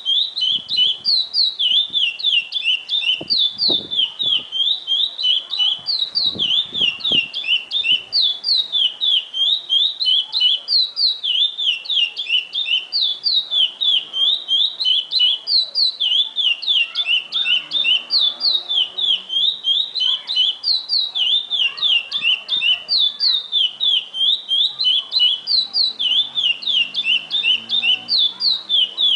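Curió (chestnut-bellied seed finch) singing the 'praia clássico' song type: an unbroken run of rapid, clear whistled notes that rise and fall in repeating phrases.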